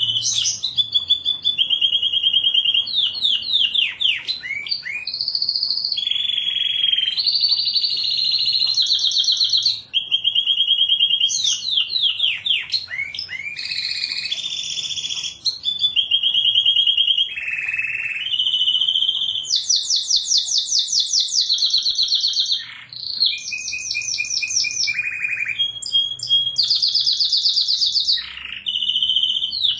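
Domestic canary singing continuously: a long, unbroken song of rapid trills and rolls. Each phrase is a run of quickly repeated notes, and the bird switches to a new phrase every second or two.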